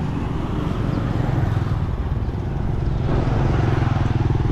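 Small motorcycle engine running close by, a steady low throb that grows a little stronger about three seconds in.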